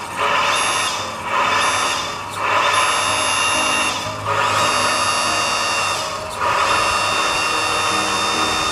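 Electric hydraulic pump of a radio-controlled scale model crane truck whining in repeated spells, dipping briefly about a second in and again near two, four and six seconds as the crane functions are worked.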